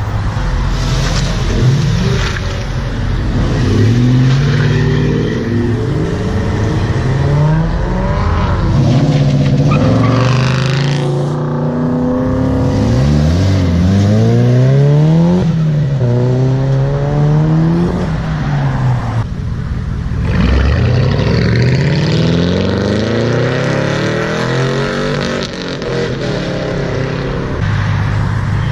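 A car engine revving hard in repeated rises and falls over a steady hiss, with a brief dip about two-thirds of the way in: a car doing a burnout.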